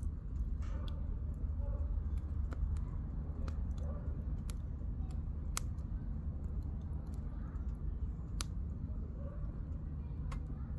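Campfire firewood crackling, with sharp pops at irregular intervals over a steady low rumble.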